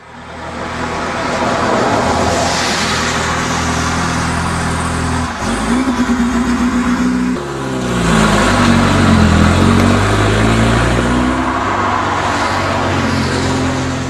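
Classic Sunbeam cars driving past one after another, their engines getting louder over the first couple of seconds. Between about 8 and 11 seconds in, the engine pitch rises and falls as cars go by.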